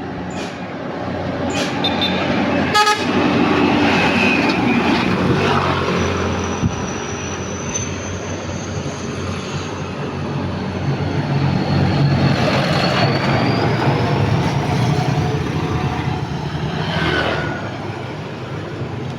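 Road traffic passing close by: heavy vehicle engines and tyre noise swelling as vehicles go past, with vehicle horn toots.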